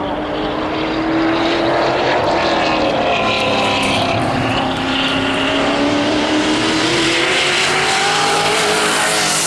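Muscle car race engines running hard at racing speed. The engine note swells over the first second, dips slightly in pitch in the middle and climbs again toward the end.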